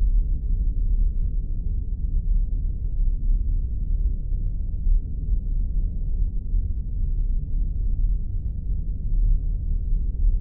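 Spaceship ambience sound effect: a steady, deep rumble that holds unchanged throughout.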